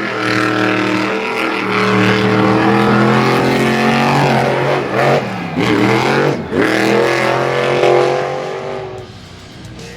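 Racing engine running hard at high revs, its pitch sagging and swinging back up twice about five and six and a half seconds in, then dying away near the end.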